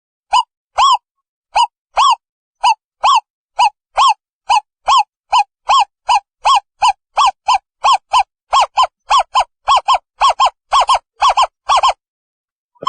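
An owl calling: a long series of short, hollow notes, each rising and falling in pitch, which speeds up from about two to about four notes a second and breaks off about a second before the end.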